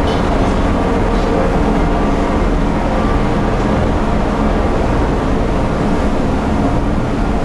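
A passenger ferry's engines running steadily while under way: a low, even drone with several steady engine tones, heard from inside the ship.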